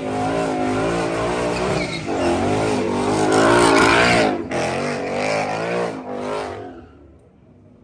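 Car engine revving hard, its pitch rising and falling repeatedly, loudest about three to four seconds in, then fading away near the end.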